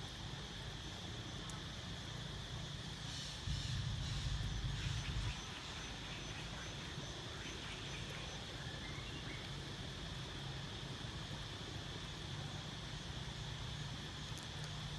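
Outdoor ambience: a steady high insect drone over a low rumble, with a louder stretch of low noise from about three to five seconds in.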